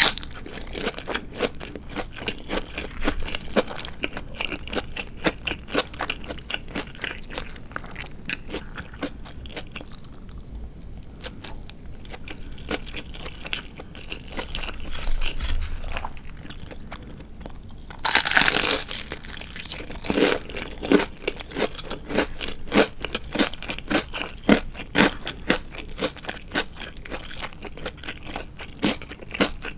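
Close-up chewing of crispy deep-fried chicken (tatsuta-age), a dense run of small crunches. A louder, crunchier bite comes about two-thirds of the way through, followed by more chewing.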